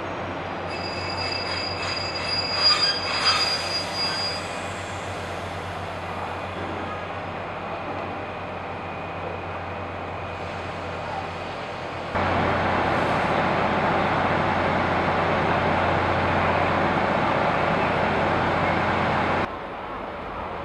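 A TRA DR3000-series diesel multiple unit pulls away, its wheels squealing with several high steady tones for a few seconds near the start. Later a much louder, steady rail noise starts and stops abruptly.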